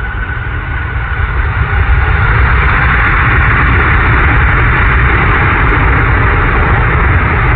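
Jet engines of a landing aircraft passing the microphone, a loud steady rushing noise that swells about two seconds in and then holds.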